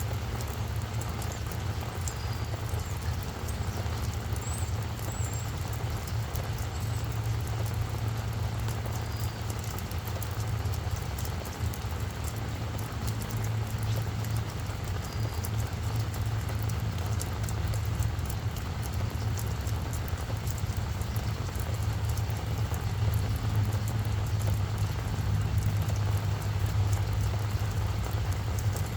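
Steady rain pattering on a flower bed, a continuous hiss full of fine drop ticks, over a steady low rumble.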